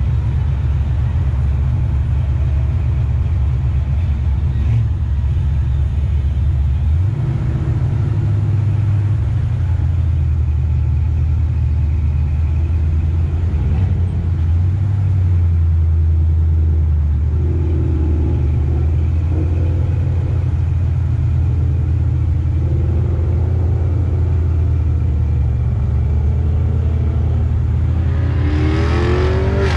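A Chevrolet Nova's engine running at idle and low speed in stop-and-go traffic, a loud, low, pulsing rumble whose note shifts a few seconds in. Near the end an engine revs up quickly.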